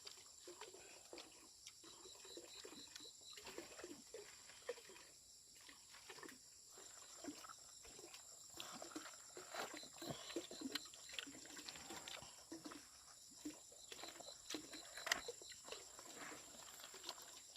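Faint, irregular soft clicks and smacks of people eating ripe jackfruit pulled apart by hand, over a thin steady high tone.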